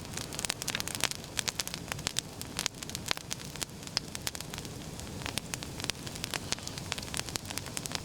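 Campfire of wet oak branches crackling, with frequent irregular sharp pops over a steady hiss as steam escapes from the sappy wood.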